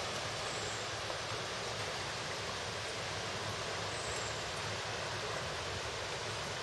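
Steady wind blowing after a thunderstorm, an even rushing noise with no distinct gusts or events.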